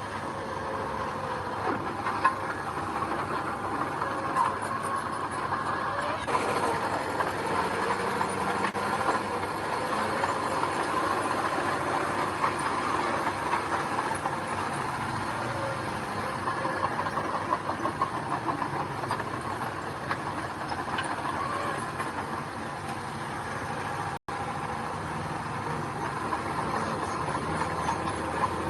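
Heavy diesel earthmoving machinery running steadily under load, a continuous engine drone with metallic clatter, cut off for an instant about 24 seconds in.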